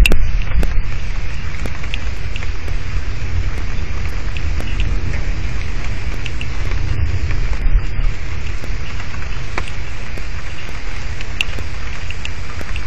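Thunderstorm rain pouring on an outdoor camera's microphone: a steady hiss with scattered sharp drop ticks and a strong low rumble underneath.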